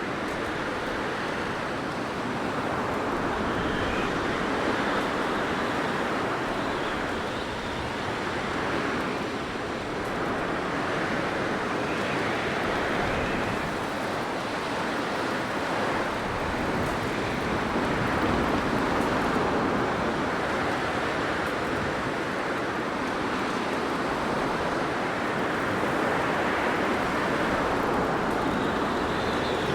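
Blizzard wind blowing steadily, a dense rushing noise that swells and eases gently every few seconds.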